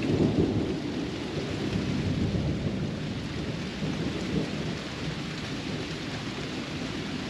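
Thunderstorm: thunder rumbling over steady rain. It is loudest in the first second and then settles into a steady wash of rain, with a couple of smaller swells of rumble.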